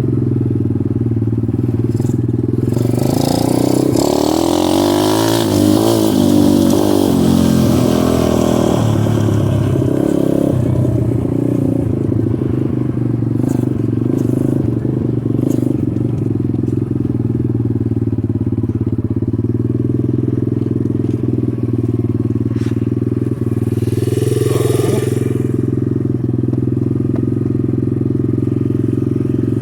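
Dirt bike engine running at a steady pitch. For a few seconds early on a second engine tone rises and falls over it. Near the end there is a brief rush of hiss.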